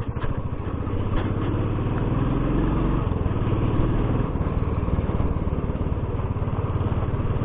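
Royal Enfield Classic's single-cylinder engine running under way at riding speed, its pitch rising a little about two seconds in as it picks up revs, then holding steady.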